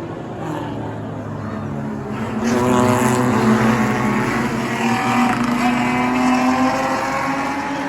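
Race cars' engines running on a short oval track, the sound swelling about two and a half seconds in and staying loud.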